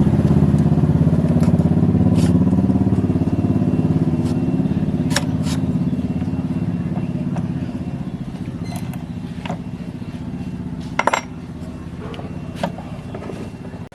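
A small motor or engine running with a rapid, even beat, fading gradually, with a few sharp clicks near the end.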